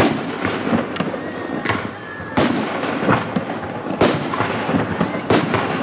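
Fireworks display: aerial shells bursting one after another, a sharp bang roughly every second, with the loudest bursts about two and a half and four seconds in.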